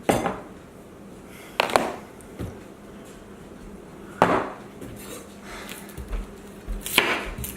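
Dishes and cutlery clattering in a series of sharp clinks and knocks, about five at uneven intervals, as tableware is handled and set down.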